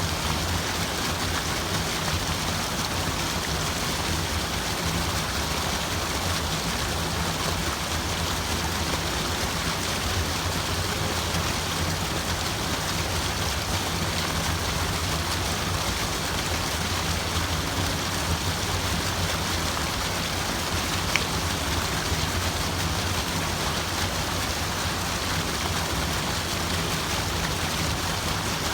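Steady, unbroken water sound: an even wash of noise that keeps the same level throughout.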